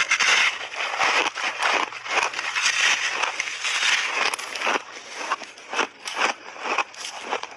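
Big chunks of refrozen buckwheat ice crunching and cracking as they are bitten and chewed. The crunching is dense for the first few seconds, then turns into separate crunches about two a second.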